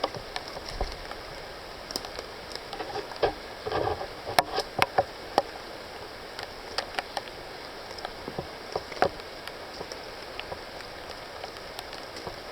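Footsteps through wet rainforest undergrowth: leaves rustling and twigs crackling in irregular snaps, busiest about four seconds in, over a steady hiss.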